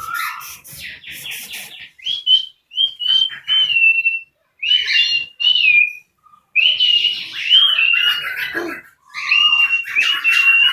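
Birds calling in a run of harsh calls, each carrying a whistled note that bends up and then down, repeated many times with short gaps.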